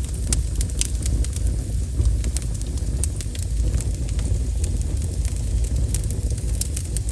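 Wood fire crackling: scattered sharp pops and snaps, several a second, over a steady low rumble.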